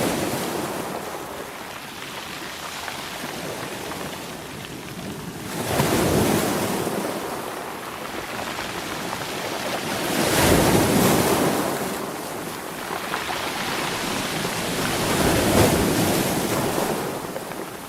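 Sea waves breaking in surges about every five seconds, with a steady wash of surf between.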